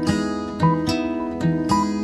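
Background music: acoustic guitar picking a steady run of plucked notes.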